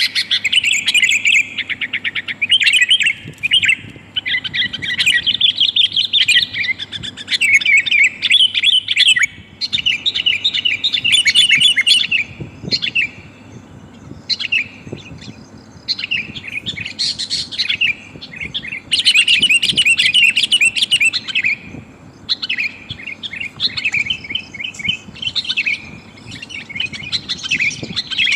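Sooty-headed bulbul (kutilang) chirping in rapid, busy phrases of a few seconds each with short pauses between. These are the calls of a female calling to males, the kind played as a lure to bring wild bulbuls down.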